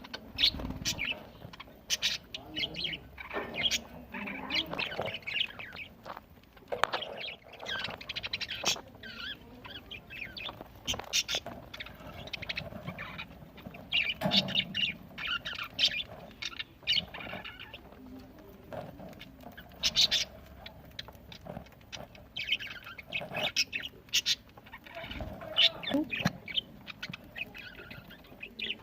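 Budgerigars chirping and chattering, many short high calls overlapping in an irregular stream, with sharp clicks among them.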